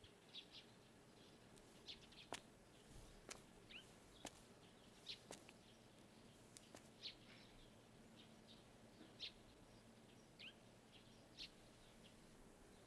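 Near silence, with faint, sparse bird chirps now and then and a few faint clicks.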